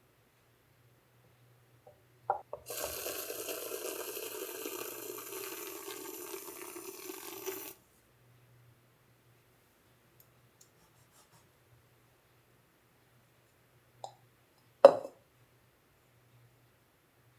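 Water running from a tap for about five seconds, turned on and then shut off abruptly, followed later by a sharp clack.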